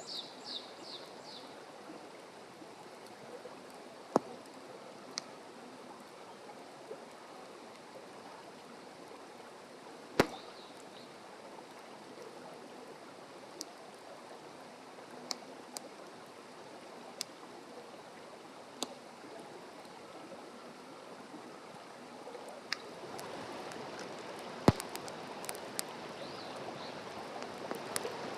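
Wood fire burning with a steady hiss and scattered small crackles, three sharp louder pops, and a slight swell in the burning near the end.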